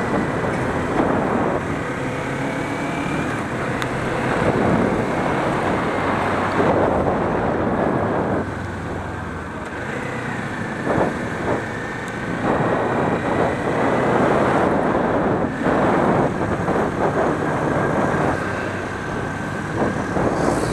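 Wind rushing over the camera microphone during a motorcycle ride, rising and easing in swells, with the Kawasaki Ninja 400's engine and surrounding road traffic underneath.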